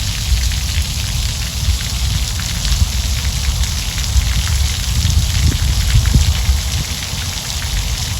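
Rainwater draining and splashing out of a raised steel dump bed onto the ground, a steady spatter of many small drips and splashes, over a steady low rumble.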